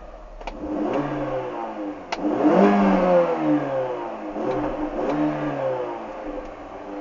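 Mini Cooper 1.6's four-cylinder petrol engine heard from inside the cabin, its note climbing and falling back several times under throttle, with the steepest rise about two seconds in. Two sharp clicks come near the start and just before that rise.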